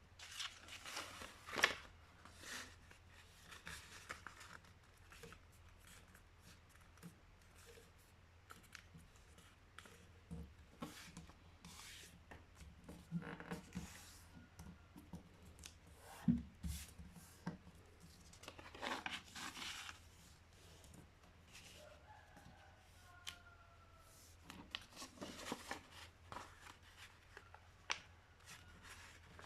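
A sheet of paper being handled and folded by hand, with irregular rustles and sharp scraping strokes as creases are pressed in. A faint steady low hum sits underneath.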